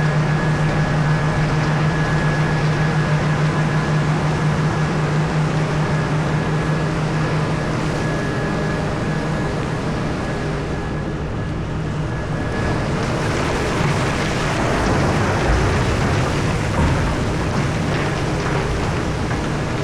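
Komatsu PC4000 hydraulic mining excavator running steadily under load, a deep engine tone with a thin steady whine over it. About two-thirds of the way in the whine fades and a rougher, noisier rumble with a few knocks takes over.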